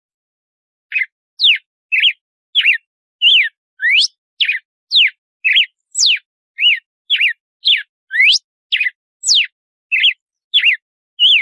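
Red-cowled cardinal (galo-de-campina) singing: a loud run of short, clear whistled notes, each a quick rising or falling slur, about two a second, with silent gaps between them. The song starts about a second in.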